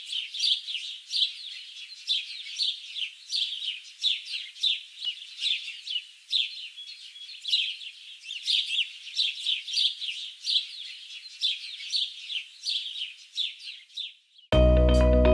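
Birds chirping: many short, quick calls overlapping without pause. Loud music cuts in abruptly near the end.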